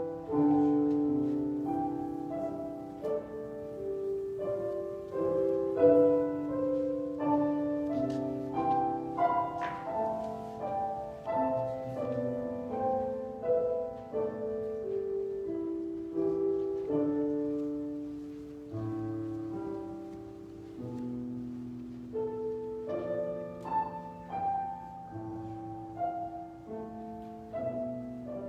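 Solo piano playing a slow piece of single notes and chords that fade out slowly.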